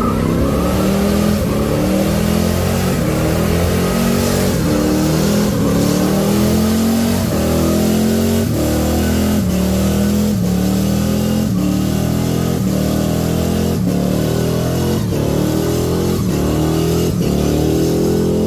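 V8 car engine revving hard, its pitch climbing and dropping again and again.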